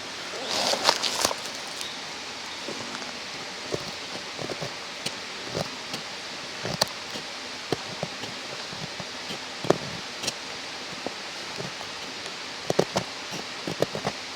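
Steady rush of a mountain stream under scattered small sharp crackles and snaps, with a brief burst of rustling about a second in.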